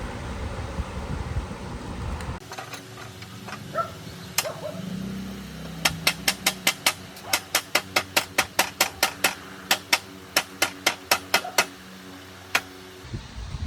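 Low rumbling noise, then, after a sudden change about two seconds in, a run of about two dozen sharp hammer taps on metal, about five a second, in three short bursts with brief pauses between them.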